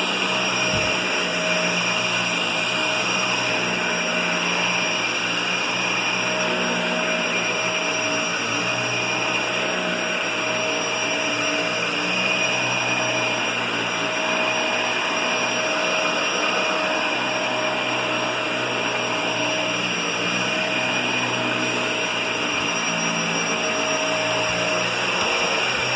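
Vacuum cleaner running steadily, a constant whine over a rushing airflow noise.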